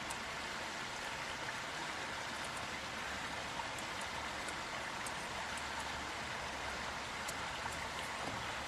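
Steady, even hiss of background noise, with a few faint small ticks.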